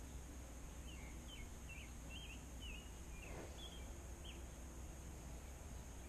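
A songbird singing faintly: a run of quick, varied chirping notes starting about a second in and lasting about three seconds, over a faint steady outdoor hiss.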